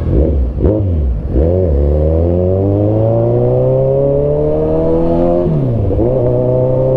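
Kawasaki Z900RS inline-four through an Arrow aftermarket exhaust, accelerating under load. A couple of quick throttle blips are followed by one long rising pull of about four seconds, then a sudden drop in pitch about five and a half seconds in before the engine pulls again.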